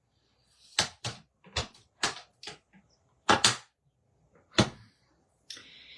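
Irregular clicks and light knocks, about eight over five seconds, from a plastic stamp ink pad being handled and tapped onto a large rubber stamp to ink it.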